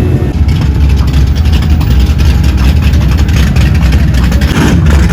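Loud, deep exhaust rumble of a car engine running close by.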